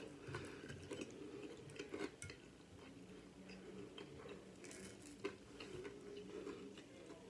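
Faint close-up chewing of crispy fried chicken salad, with irregular small crunches and clicks over a low steady hum.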